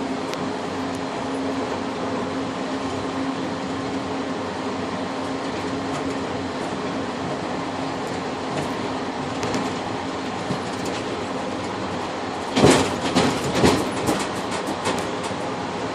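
Passenger train car running along the track, heard from inside the rear cab vestibule: a steady rumble with a low hum. About thirteen seconds in comes a short burst of clattering knocks from the wheels going over rail joints.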